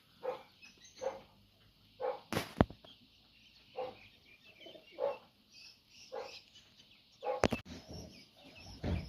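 An animal's short calls repeated about once a second, with faint high chirps of small birds in the later part and two sharp knocks.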